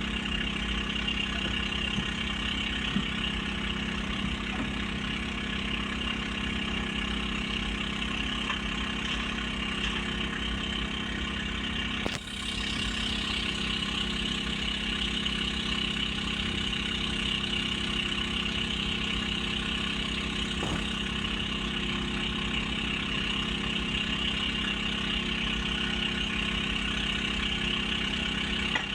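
Diesel engines of heavy construction machinery running steadily, a continuous engine hum with a brief dip about twelve seconds in.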